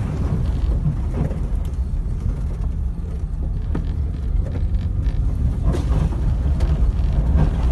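A car driving along a road: a steady low rumble of engine and tyre noise, with a few faint ticks and rattles.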